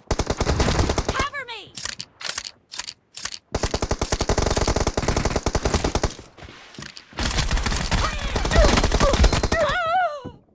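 Video game automatic gunfire: three long bursts of rapid shots with a few single shots between them, and short wavering, wail-like voice sounds about a second in and near the end.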